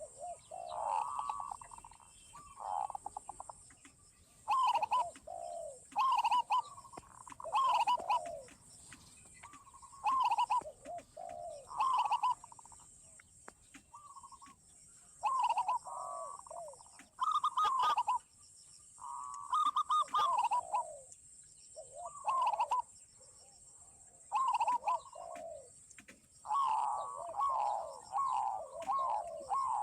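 Zebra doves and spotted doves cooing in a garden, several birds calling in repeated falling phrases every second or two, overlapping more densely near the end. A steady high-pitched hum runs underneath.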